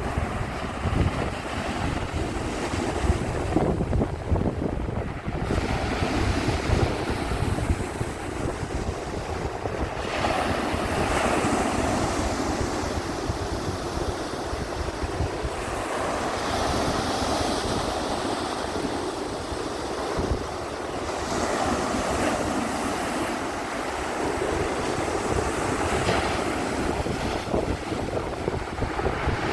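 Black Sea waves surging in every few seconds, with wind buffeting the microphone in low rumbling gusts.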